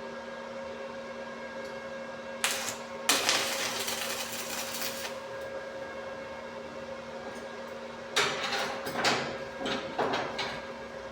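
Welding machine humming steadily. About three seconds in comes a two-second burst of crackling arc welding, and near the end a run of short, irregular crackles and knocks.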